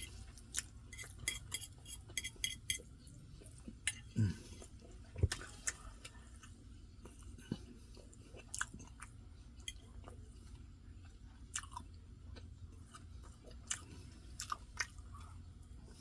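A person chewing rice and gravy close to the microphone: irregular wet mouth clicks and smacks, with light fork taps on a plate now and then. A brief low vocal sound comes about four seconds in.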